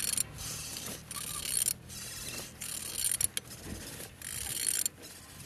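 Ratchet wrench clicking in repeated short strokes as the crankshaft of an Opel Z18XER 1.8-litre four-cylinder engine is turned over by hand. The engine turns freely.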